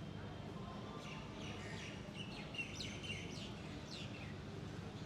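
Birds chirping: a quick run of high chirps and short falling notes, over a steady low background hum.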